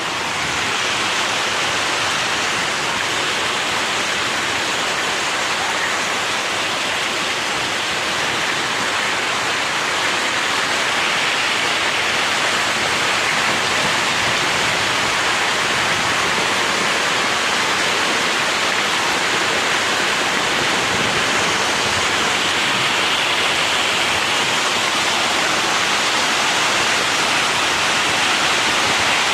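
Loud, steady rush of water: an even hiss with no breaks, no rhythm and no separate strikes.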